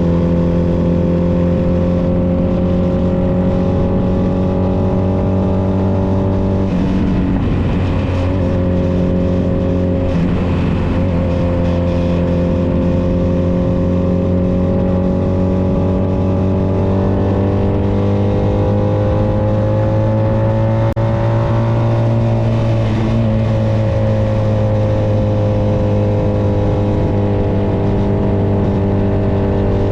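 Honda Nighthawk 250's air-cooled parallel-twin engine running steadily under way. Its pitch rises gradually through the middle and drops back about two-thirds of the way through.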